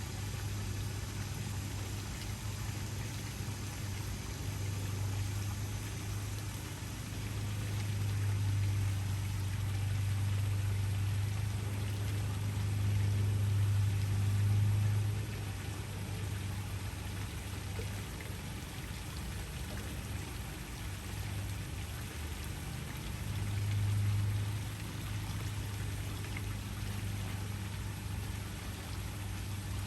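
Waterfall: a steady rush of falling water with a deep low rumble, swelling louder in the middle of the stretch and again briefly near the end.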